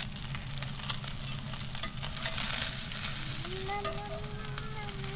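Salmon frying skin-down in hot oil and butter in a pan, sizzling steadily with many small pops and crackles. A faint held tone joins in about three seconds in.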